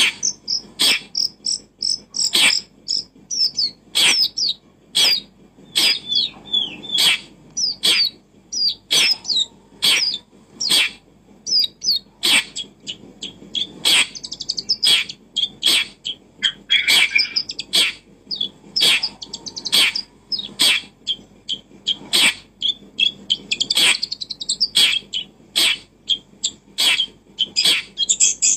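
Small birds chirping and twittering in quick high notes, with frequent sharp clicks or taps in between.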